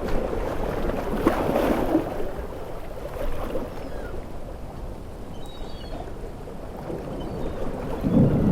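Sea waves breaking and washing ashore in a steady low rush, swelling about a second in and surging louder near the end.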